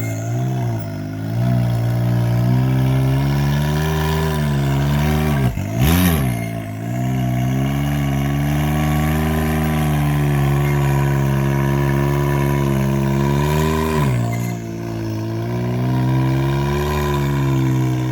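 Can-Am X3 XRS Turbo RR's turbocharged three-cylinder engine pulling steadily while driving a dirt trail. It gives a quick sharp rev about six seconds in, and its pitch drops about fourteen seconds in as the throttle comes off.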